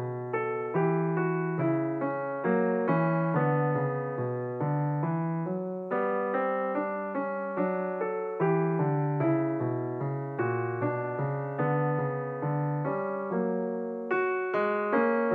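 Background piano music: a steady, unhurried line of single struck notes and chords, each fading after it is played.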